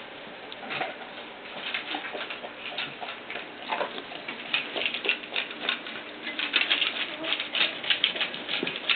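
A litter of nearly three-week-old puppies moving about, with a dense patter of small scratching and clicking and a few faint squeaks. The patter grows busier about halfway through.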